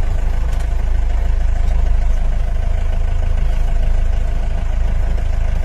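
A vehicle engine idling steadily, a constant low rumble heard from inside the cabin.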